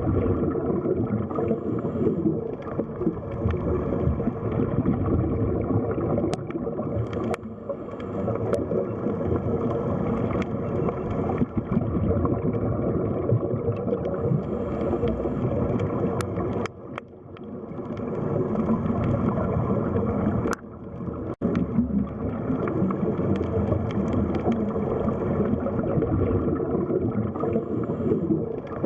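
Underwater sea ambience: a dense, muffled wash of moving water with gurgling, dipping briefly twice.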